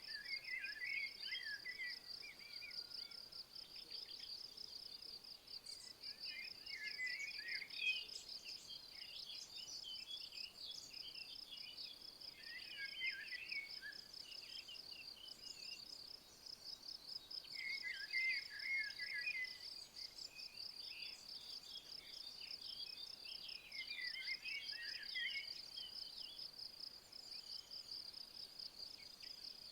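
An insect's continuous high, rapidly pulsing trill, with a songbird singing a short chirping phrase about every five to six seconds.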